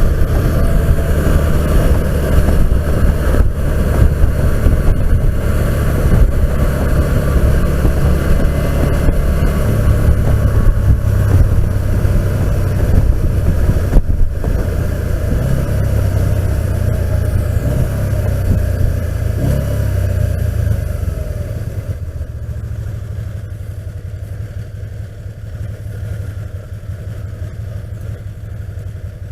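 Riding noise from a Can-Am Spyder RT picked up by a Sena 10C helmet microphone with the face shield down: wind buffeting and engine rumble at speed. The noise drops noticeably about three-quarters of the way through as the ride eases off.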